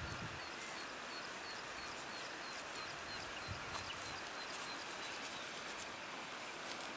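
A small bird chirping in a quick, even series, about three notes a second, over a steady outdoor hiss; the chirps fade out after the middle.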